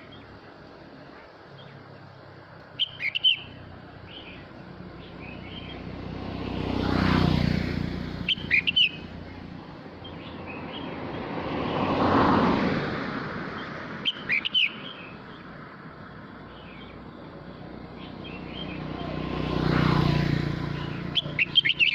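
A male red-whiskered bulbul sings short, loud warbled phrases about every five or six seconds. Three times, a slow swell of noise rises and fades behind the song, like vehicles passing.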